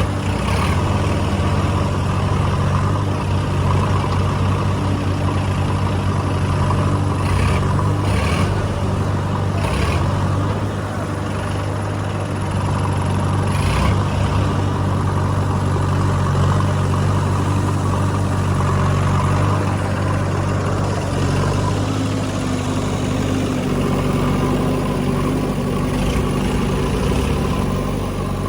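Heavy diesel machinery engine running steadily with a low, even hum, with a few short knocks at about seven, eight, ten and fourteen seconds in.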